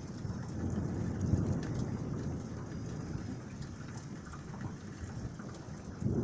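Thunder rumbling over steady rain during a severe thunderstorm: the rumble swells about a second in and slowly eases, and another rumble begins near the end.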